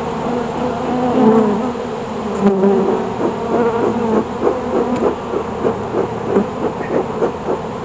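Honeybees buzzing around an open hive: a loud, dense, wavering hum of many wingbeats, pulsing regularly from about three seconds in.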